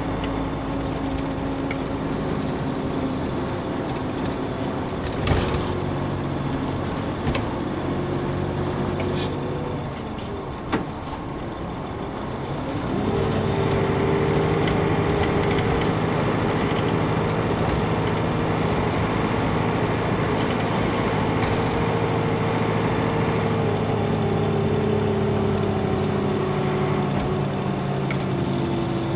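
Nissan Diesel UA bus's PF6HTA diesel engine running as the bus drives along. A little over halfway in, the engine note drops and quiets, with a sharp knock. From about 13 seconds the engine pulls louder and steady under load, its pitch easing down near the end.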